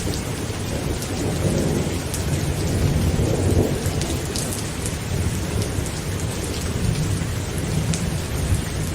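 Heavy rain pattering on a tent, with scattered sharp drops ticking on the fabric, over a continuous low roll of thunder that swells briefly about one and a half seconds in and again about three and a half seconds in.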